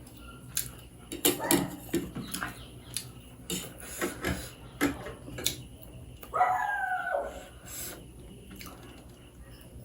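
Close-up eating sounds: wet chewing, mouth clicks and smacks, several a second in irregular clusters. About six and a half seconds in comes one short pitched call with a wavering pitch, lasting under a second.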